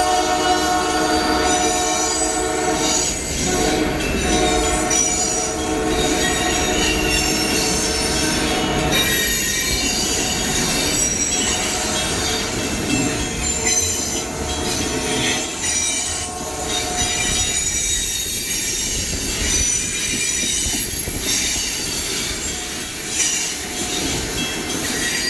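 Canadian Pacific Holiday Train passing close by: its horn sounds a chord through the first several seconds and then fades, while the train rolls past with a steady rumble and high-pitched wheel squeal.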